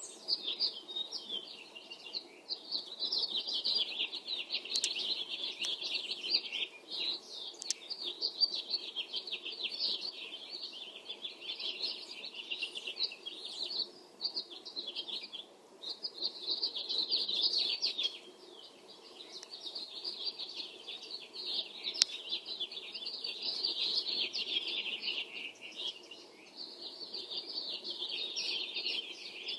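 Early-morning chorus of small birds singing: many overlapping rapid chirps and twitters, with brief lulls, over a faint steady low hum.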